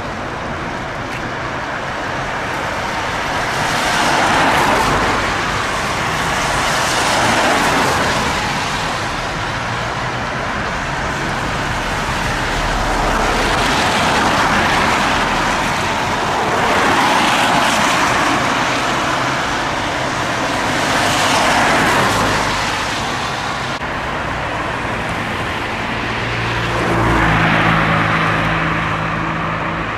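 Road traffic with cars passing one after another, each swelling up and fading over a couple of seconds, about six times. A steady low engine hum comes in near the end.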